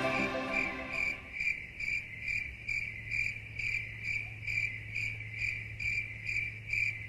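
A cricket chirping, an even high-pitched pulse repeating a little over twice a second, over a steady low hum. The last notes of a music track fade out in the first second.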